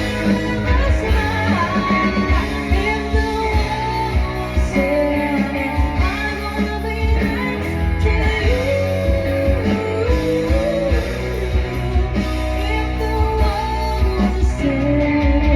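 Live band music: drums and bass keeping a steady beat under guitar and a melody line.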